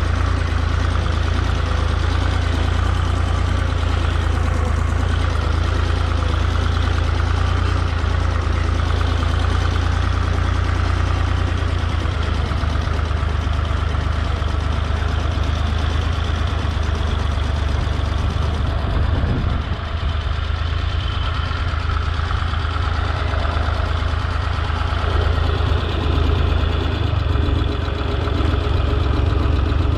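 Holder A45 vineyard tractor's engine running steadily while chopping vine prunings, with a brief dip in level about two-thirds of the way through.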